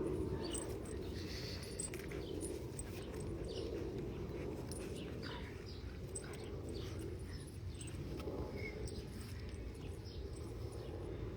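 Doberman puppies nursing: scattered faint squeaks and small mouth sounds over a steady low background hum.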